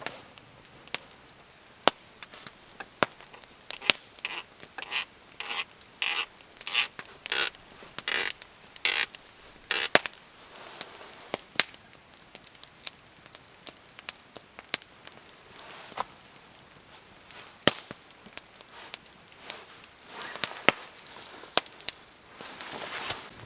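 Wood fire crackling with scattered sharp pops. Partway through comes a run of about a dozen short crunching strokes, about two a second.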